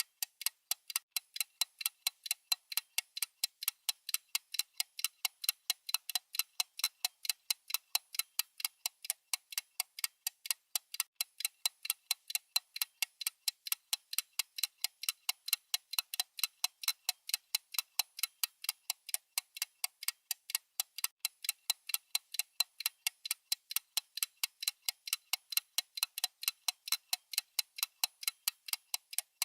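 A clock-style ticking sound effect for a countdown timer: rapid, evenly spaced, high-pitched ticks at a steady level.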